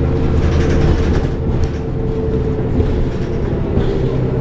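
Cummins ISL diesel engine of a New Flyer D40LF transit bus running steadily, heard from inside the passenger cabin, with road noise and a few light interior rattles.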